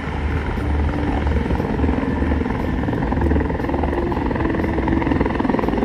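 CH-146 Griffon helicopter running steadily close by: a rapid beat from its main rotor over the whine of its twin turbines.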